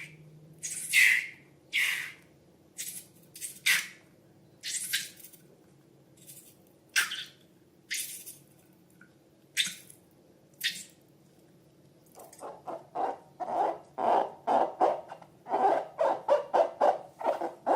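Slime being squeezed and worked by hand: sharp, wet crackles about a second apart, then from about two-thirds in a quick run of softer squelches, about three a second.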